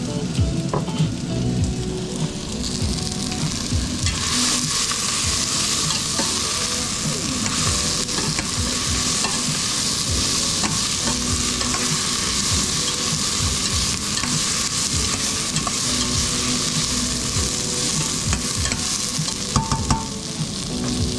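Food sizzling in a hot frying pan while it is stirred, with small knocks of the utensil against the pan; the sizzle grows much louder about four seconds in.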